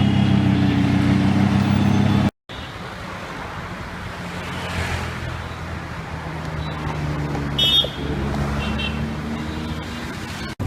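Lamborghini Huracán LP610-4's V10 with race exhaust running at a steady idle. After a sudden cut it gives way to a quieter engine hum that slowly rises, with road traffic around it and a couple of short car-horn toots near the end.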